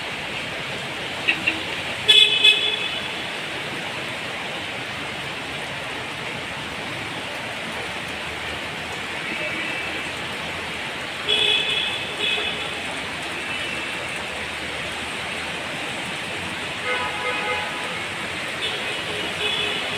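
Steady hiss of heavy rain and wet street traffic, with car horns honking: short beeps a couple of seconds in, again about halfway through, and several more near the end.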